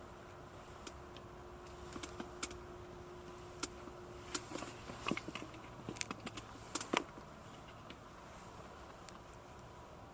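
Irregular light clicks and knocks, about a dozen, bunched between two and seven seconds in, over a faint steady background.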